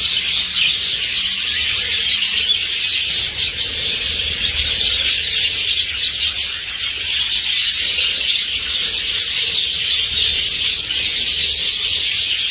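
A large flock of budgerigars chattering at once: a steady, dense stream of overlapping chirps and warbles.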